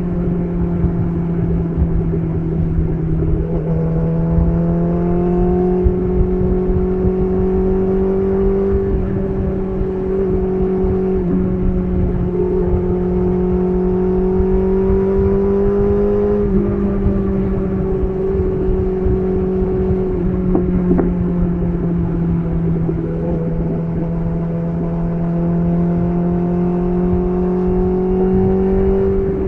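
BMW S1000RR inline-four engine running through an SC Project CR-T titanium exhaust while riding at fairly steady revs, its pitch drifting slowly up and down with the throttle and dropping sharply about halfway through.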